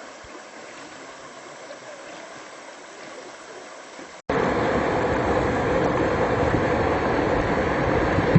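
River water flowing, a soft steady rush. About four seconds in the sound cuts off abruptly and jumps to a much louder, steady rushing noise with a heavy low rumble.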